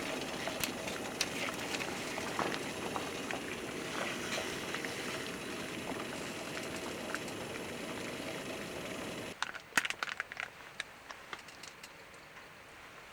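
Food cooking over a campfire: a steady sizzling hiss with scattered crackles. About nine seconds in it cuts to a quieter stretch of sparse crackles and ticks.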